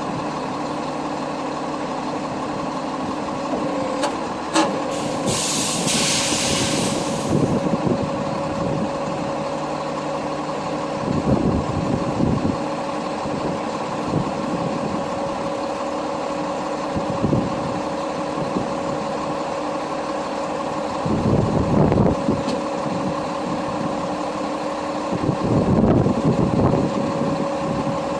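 Kenworth tow truck's diesel engine running steadily. About five seconds in comes a burst of air hiss, typical of air brakes, and there are a few heavier low rumbles later as the engine works harder.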